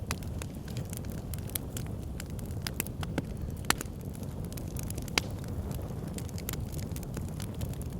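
Backyard fire pit crackling: a steady low rumble of burning with many scattered sharp pops and snaps, two of them louder at about the middle of the stretch.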